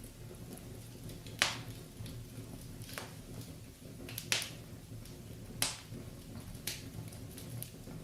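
Wood fire burning in a fireplace, crackling, with about five sharp pops at irregular intervals over a low steady rumble.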